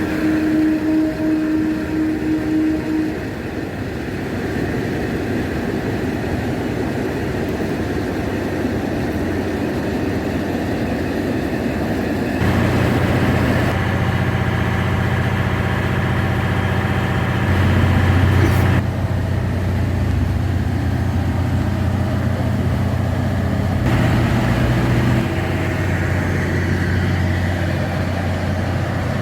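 KiHa 183 diesel railcar's engines running steadily. The engine note steps up about twelve seconds in and shifts again a few times after, as with throttle notch changes.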